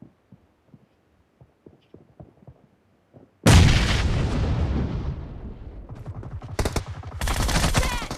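Shooter video game sound effects: faint soft thuds, then about three and a half seconds in a sudden loud blast that slowly dies away, followed by bursts of rapid gunfire.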